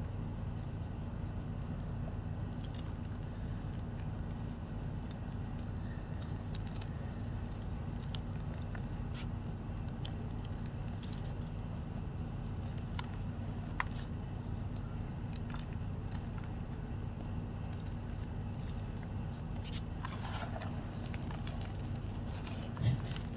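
White gym chalk being crushed, giving sparse, faint crackles and clicks over a steady low rumble, with one sharper knock near the end.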